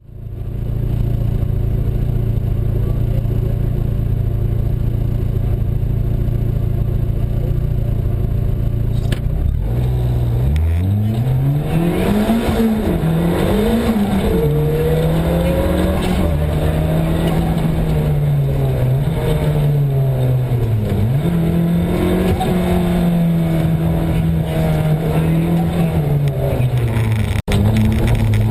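Rally car engine heard from inside the cabin. It holds steady revs for about the first ten seconds, then the car pulls away with the revs climbing and dropping through quick gear changes, and it keeps working hard with revs rising and falling.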